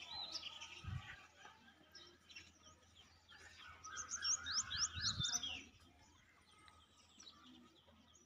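Birds chirping, with a quick run of short rising chirps about four seconds in, over faint outdoor background.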